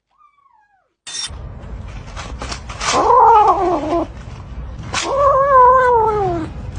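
A cat yowling: two long, drawn-out calls a couple of seconds apart, each falling in pitch at the end, after a faint short call near the start.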